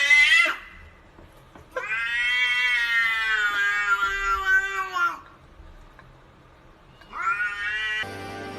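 Cat yowling: drawn-out caterwauling calls, one long call of about three seconds in the middle and a shorter one near the end.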